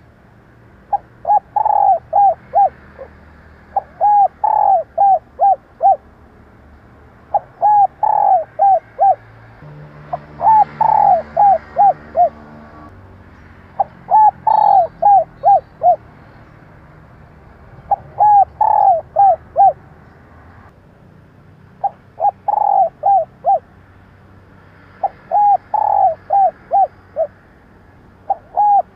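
Female spotted dove cooing: short phrases of four or five quick coos, the first the longest and loudest, repeated every three to four seconds, nine times over. The call is used to stir a caged decoy dove into calling.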